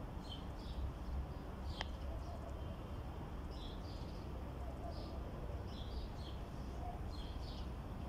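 Small birds chirping, short high notes scattered all through, over a steady low rumble, with one sharp click about two seconds in.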